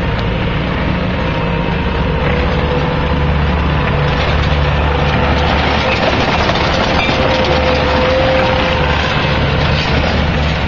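Bobcat skid-steer loader running hard, a steady low engine drone with a whine over it and continuous cracking and scraping noise.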